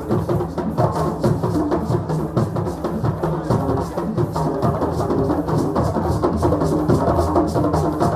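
West African drums played in a fast, steady rhythm, several drums at once.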